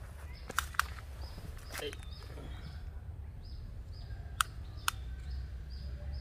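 A bird repeating a short, high chirp about twice a second, over a steady low rumble, with a few sharp clicks: two close together about half a second in and two more near the four-to-five-second mark.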